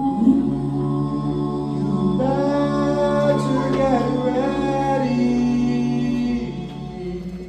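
A cappella vocal music: several voices hold long sung notes layered into chords. More voices enter about two seconds in, and the harmony shifts again near five seconds.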